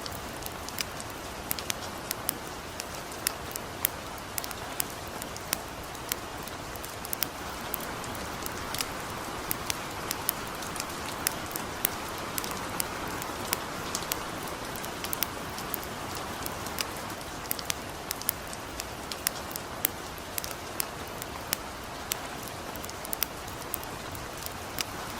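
Light rain falling steadily with a campfire burning: an even hiss with many sharp, irregular ticks and crackles.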